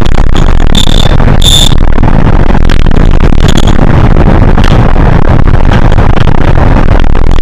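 Cabin noise of a Hino HS8JRVL city bus under way: loud, distorted engine and road noise with constant rattling, and two short high squeals about one and one-and-a-half seconds in.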